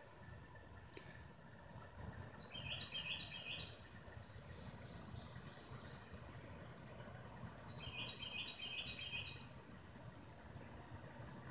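A songbird sings three short phrases of quick repeated high notes, a few seconds apart, over a steady high-pitched whine.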